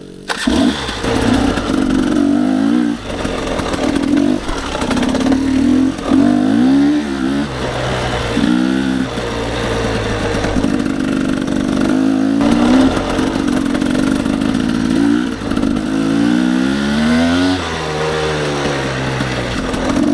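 Dirt bike engine under load, its pitch climbing and dropping again and again as the throttle is worked and gears change, riding a slippery, muddy single-track trail.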